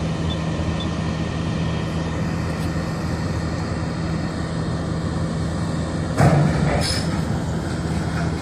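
A heavy truck's engine running steadily with a low, even drone. About six seconds in there is a sudden loud noise, with a shorter one just after it.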